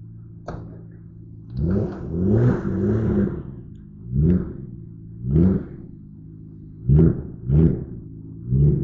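Car engine idling, then blipped repeatedly from about a second and a half in: short revs every second or so, each rising and falling in pitch.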